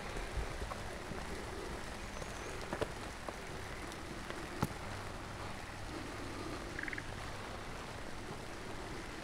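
Steady rain falling, with a few sharp drop-like ticks, the loudest about four and a half seconds in. A brief, rapidly pulsed animal call sounds about seven seconds in.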